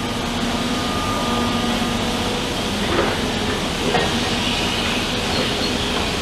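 Heavy demolition machinery running steadily under a low hum, with two sharp knocks about three and four seconds in.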